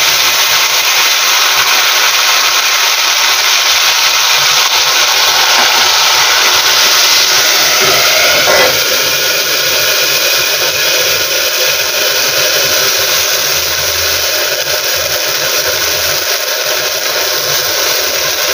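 Tomato purée sizzling and spluttering hard in hot oil in a steel kadai, a loud steady hiss. About nine seconds in, a steel plate is set over the kadai as a lid, and the sizzle carries on a little softer beneath it.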